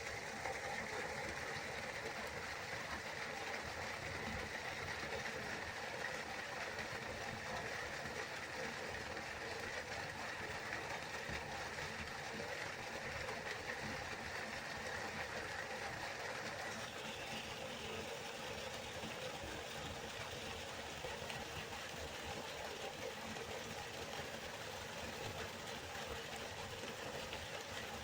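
A river flowing: a steady rush of water, its tone shifting slightly a little past halfway.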